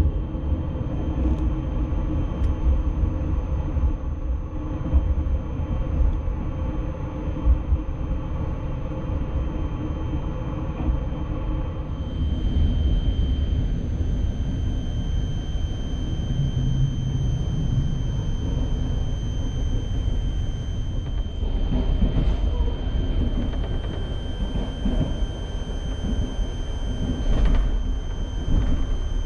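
Passenger sleeping car rolling along, heard from inside: a steady low rumble of the wheels on the track. The sound shifts about twelve seconds in, and a faint high whine runs on after that.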